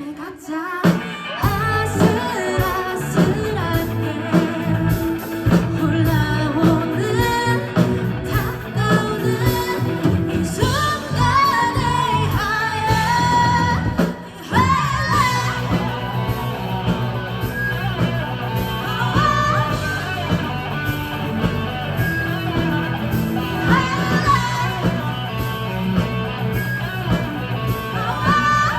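Live rock band music with a singer over electric guitar, bass and drums; the music breaks off briefly about halfway and starts again.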